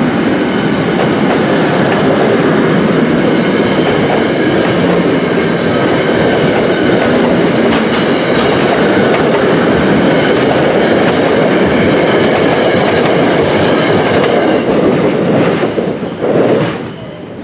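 NJ Transit commuter train coaches passing at close range: a loud steady rumble with wheels clicking over the rail joints, falling away sharply near the end as the last car goes by.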